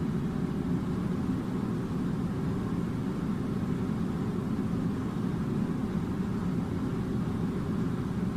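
Steady low droning noise, unchanging throughout, with no distinct events.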